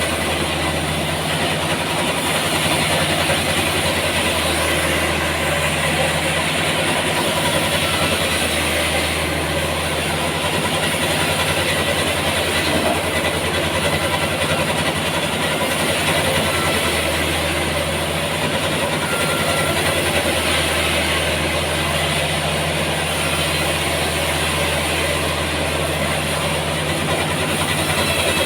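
Sawmill machinery running steadily: a continuous, even machine drone with a low hum.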